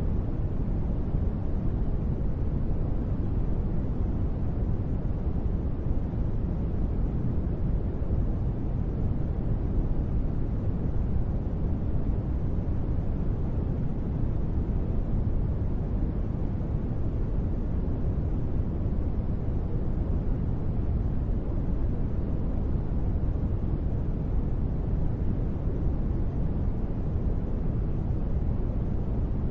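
Steady, deep, muffled noise that does not change and has no separate drops or patter: a sleep-noise track billed as gentle rain.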